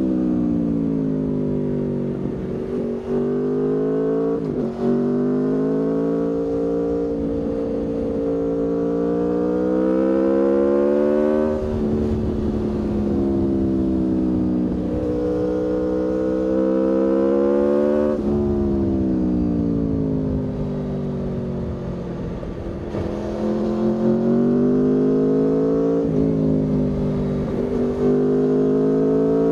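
Aprilia Tuono V4's V4 engine under way, its note climbing steadily through the revs, dropping back sharply about twelve and eighteen seconds in, falling away slowly, then climbing again.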